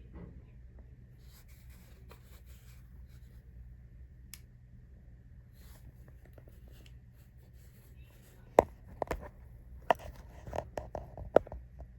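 Plastic wrapper of a frozen breakfast pastry being handled: faint rustling, then a run of sharp crinkles and clicks starting about eight and a half seconds in.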